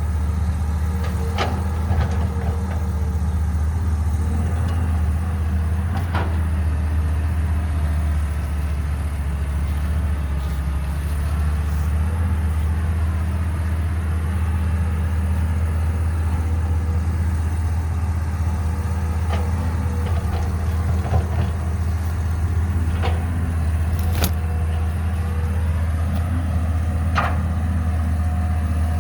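Caterpillar 312B excavator's diesel engine running steadily, with a higher whine that dips in pitch and comes back up about halfway through, and a few sharp knocks.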